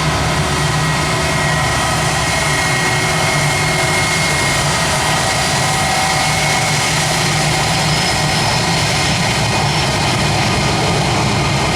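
Jet airliner engines close by at the runway, a loud, steady rushing noise with faint high whine tones held through.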